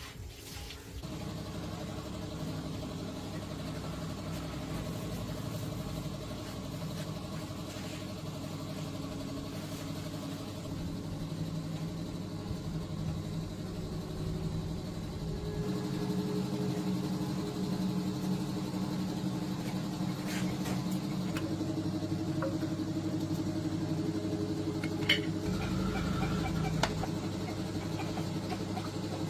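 Restored old tractor engine running steadily at idle. About halfway through, its note steps slightly higher and louder, and a couple of short sharp clicks come near the end.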